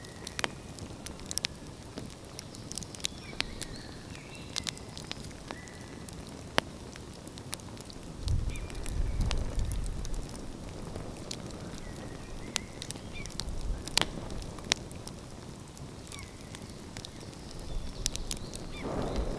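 Outdoor wood fire crackling, with frequent sharp pops and snaps over a steady hiss. A low rumble swells about eight seconds in and again near the end.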